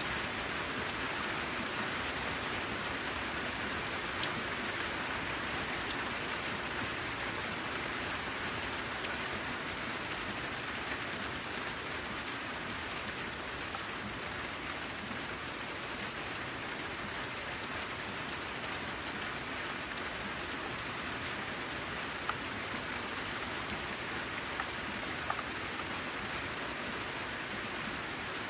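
Steady rain falling, an even hiss, with a few sharp ticks of single drops here and there.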